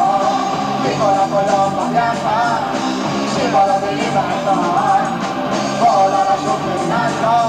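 Amateur live tape recording of an Italian progressive rock band playing, a bending melody line over a repeating lower accompaniment.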